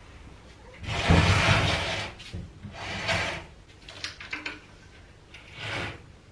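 Small chrome IKEA furniture unit dragged across the floor in three scraping pushes. The longest and loudest starts about a second in, and a few light knocks come between the pushes.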